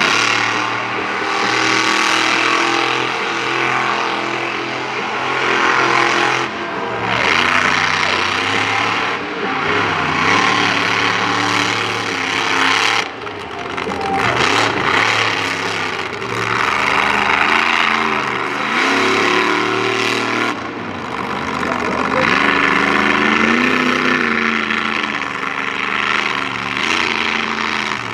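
Monster truck engine revving hard, its pitch rising and falling again and again as the truck is driven through a run, over a steady roar of engine noise.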